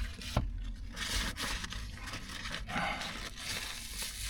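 Close-miked eating sounds from a sub sandwich: chewing and the rustle and tearing of its paper wrapper, with a sharp click about half a second in.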